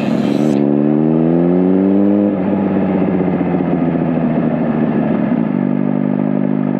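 Suzuki GSX-R1000 inline-four engine and exhaust under way, its pitch rising as the bike accelerates for about two seconds. The pitch then drops suddenly as the throttle comes off or it shifts up, sinks slowly as the bike slows, and holds steady near the end.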